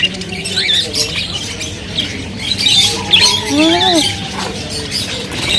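Many small caged birds chirping and squawking together in a busy, overlapping chatter of short high calls.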